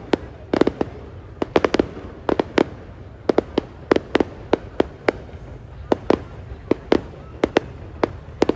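Fireworks bursting in a rapid, irregular series of sharp bangs, about two to three a second.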